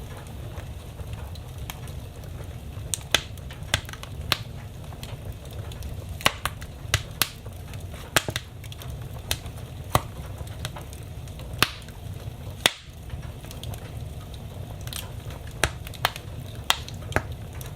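Wood fire in a fireplace crackling: irregular sharp pops and snaps, a few every couple of seconds, over a steady low rumble.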